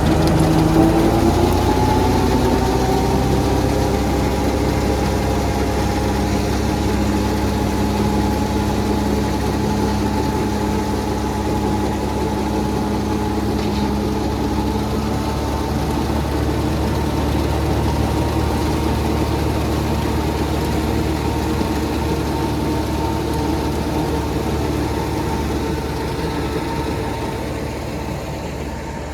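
Massey Ferguson 385 tractor's diesel engine running steadily. Its pitch rises over the first couple of seconds and then holds, and it grows a little quieter near the end.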